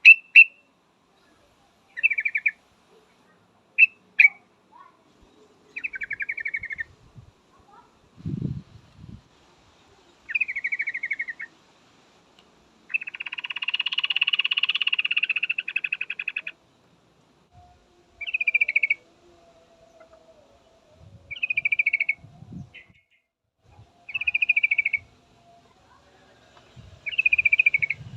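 Yellow-vented bulbul calling: short, bubbly chattering phrases every two to three seconds, with one longer rattling call lasting about three and a half seconds in the middle. A few faint low thumps are also heard.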